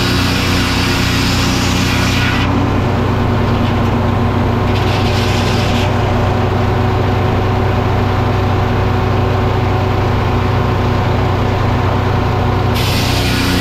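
Sawmill running steadily under power, a constant engine drone. A brighter hissing layer joins it for the first couple of seconds, again briefly about five seconds in, and once more near the end.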